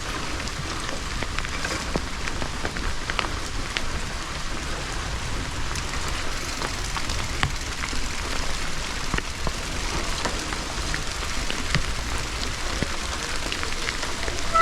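Rain pattering close to the microphone: a steady stream of small irregular ticks over a low, even rumble.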